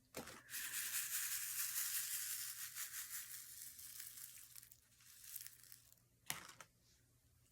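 Crinkling, rustling hiss from handling diamond painting materials, fading out after about four seconds, followed by a sharp click about six seconds in.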